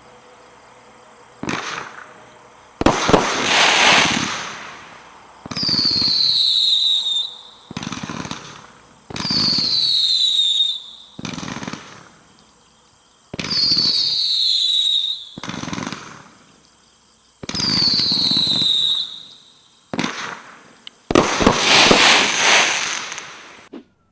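A 204-shot consumer barrage finale cake firing in a series of separate volleys of bursts. Four of the volleys carry a high, slowly falling whistle, and the loudest volley comes near the end.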